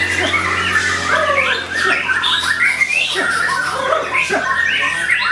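White-rumped shama (murai batu) singing: a rapid, dense run of chirps, rattling notes and quick whistled sweeps with no break.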